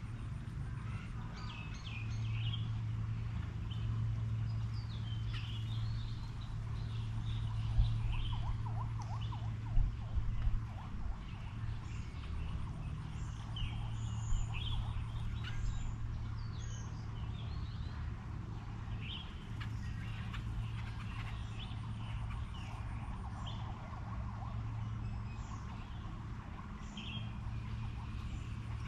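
Several songbirds chirping and calling over a steady low hum, with a few brief knocks about a third of the way in.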